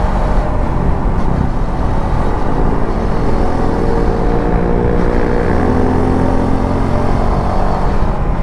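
Suzuki V-Strom 250 SX's single-cylinder engine running steadily while riding, its pitch shifting gently with the throttle.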